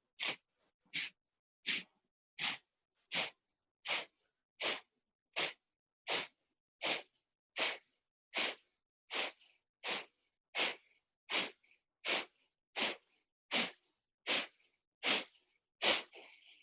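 Kapalabhati breathing: a steady train of short, forceful exhalations through the nose with passive inhales between, about one and a half puffs a second.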